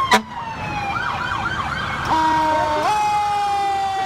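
Electronic sirens sounding together: one tone slides slowly down in pitch while another warbles rapidly, and a third jumps in pitch about two and three seconds in. There is a brief sharp click just after the start.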